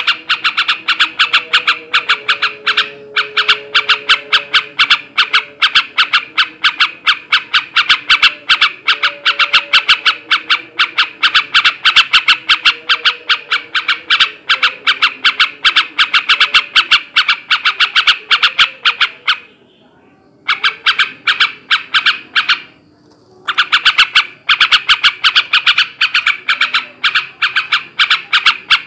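Male yellow-vented bulbul (trucukan) in a long, rapid, continuous chattering song of sharp repeated notes. The song breaks off briefly twice near the end.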